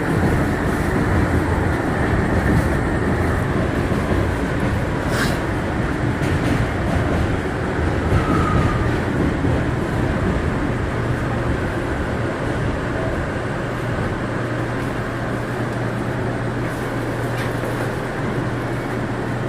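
Inside a Bombardier R179 subway car, the train's running rumble and rattle as it comes into a station. After about twelve seconds the sound settles into a quieter, steady low hum as the car stands, with a single click about five seconds in.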